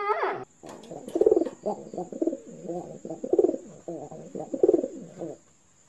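A pigeon cooing in a run of low, repeated phrases, loudest about a second in, again near three and a half seconds and near four and a half. The tail of a dog's wavering whine is heard in the first half second.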